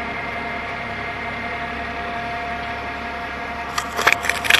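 Heavy diesel engine running steadily, with a constant whine over an even hum. A few sharp clicks and rattles near the end.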